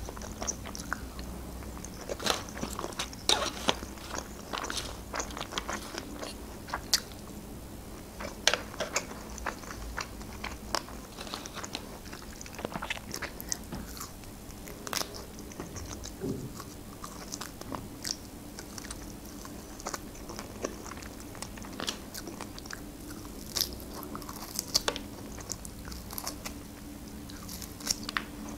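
A person biting and chewing grilled antrecote meat off the rib bone, with many irregular small clicks of mouth and teeth throughout.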